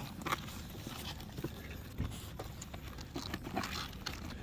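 Handling noises as a small dog is settled into a carrier on a motorcycle: scattered light knocks and taps, with a sharper knock about two seconds in, over a low steady rumble.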